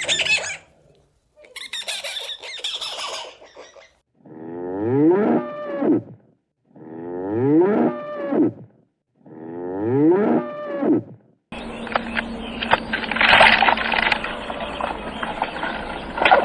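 Three near-identical animal calls of about two seconds each, their pitch rising through each call, preceded by short squeaky cries. About eleven seconds in, a different, busier recording with many clicks and hiss takes over.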